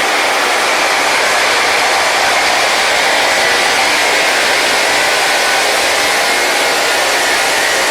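Rail-grinding machine's grinding stones running against the railhead: a loud, steady, high grinding hiss with faint whining tones in it.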